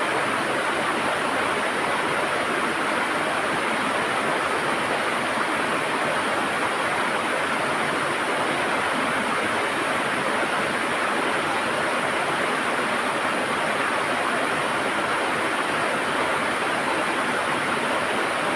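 River water gurgling and rushing over stones, steady throughout.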